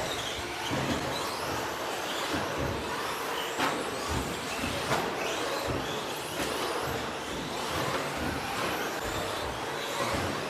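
Several radio-controlled stadium trucks with 13.5-turn brushless electric motors racing on a dirt track: motors whining up and down in pitch over a steady rush of tyres and running gear, with a few sharp knocks.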